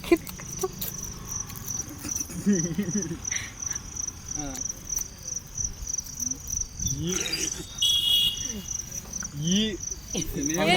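A cricket chirping steadily: a high, rapid, evenly pulsed trill. Quiet voices murmur and a few light clicks and rustles sound now and then.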